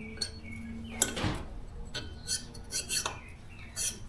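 Steel valve stem worked in and out of the valve guide of a 5.3 LS cylinder head without oil: metal-on-metal scraping and clicking, the rough feel of a dry valve in its guide. A held tone stops about a second in with a sharp click, followed by a run of short scrapes and clicks.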